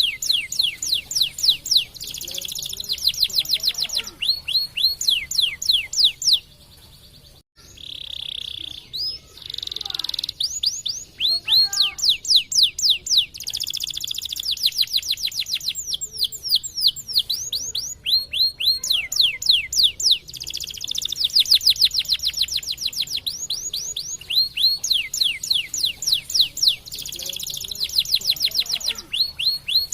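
Canary singing in long, rapid trills of quick falling whistled notes. The song breaks off briefly about seven seconds in, goes on with a few longer held notes, then returns to fast trills.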